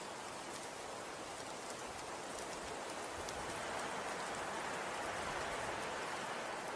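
Snow falling, a steady soft pattering hiss scattered with faint ticks, swelling a little in the middle.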